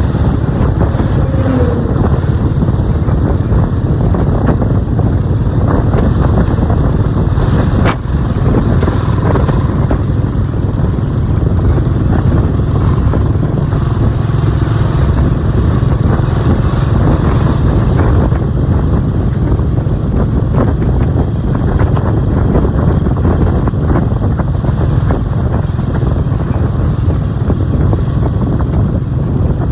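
Motorcycle riding along the road at a steady pace, its engine and road noise running evenly, strongest in the low end.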